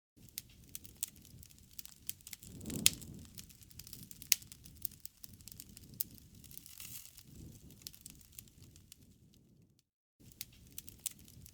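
Wood campfire crackling, with a soft low rustle of burning and scattered sharp pops, the loudest about three seconds in. The sound cuts out briefly near the end, then resumes.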